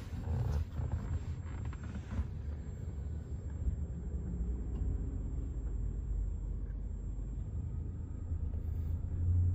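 Low steady rumble of a car's engine heard from inside the cabin as the manual training car creeps backward in reverse gear.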